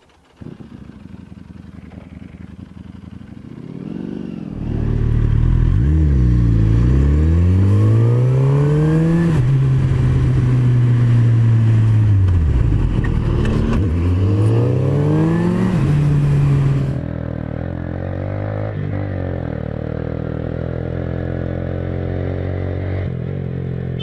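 Motorcycle engine accelerating with its pitch climbing, then holding steady, falling away as it slows, and climbing again. About 17 s in this gives way abruptly to a quieter, steady engine and road noise.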